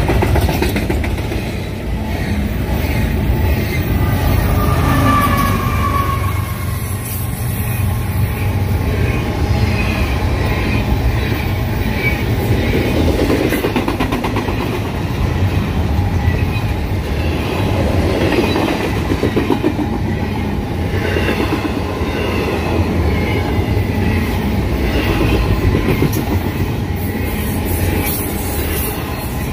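Long freight train's cars rolling past close by, just behind a mid-train DPU locomotive: a steady low rumble with wheels clacking over the rail joints and faint, wavering wheel squeal.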